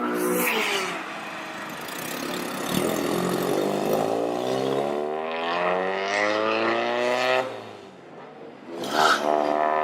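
A car engine revving, its pitch climbing steadily for several seconds before it drops away. A short, sharp burst follows near the end.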